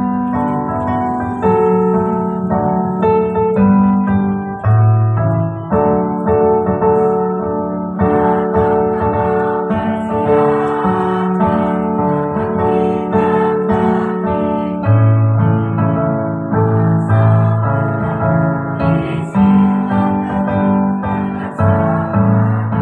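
Piano-style keyboard playing held chords over a moving bass line.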